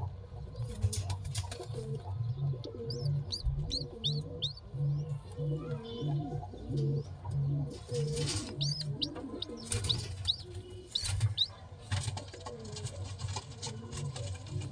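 Pigeons cooing in a low call repeated about twice a second, with short high squeaks from week-old squabs in two runs and a few brief bursts of rustling or wing flutter.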